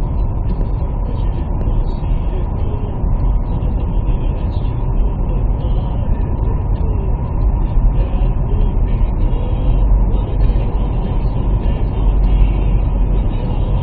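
Steady, loud low rumble of a vehicle on the move, heard from inside the cabin, with a faint steady hum above it.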